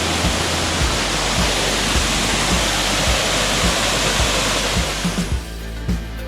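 Waterfall rushing steadily over background music with a steady beat. The water sound cuts off about five seconds in, leaving only the music.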